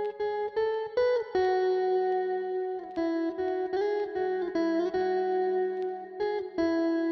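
Guitar-led background music, a melody of plucked single notes that change every half second or so, with short sharp strikes between them.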